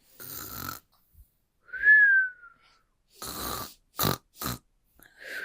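Cartoon-style snoring sound effect: a rasping snore on the breath in, then a whistle falling in pitch on the breath out, done twice, with two short snorts in between.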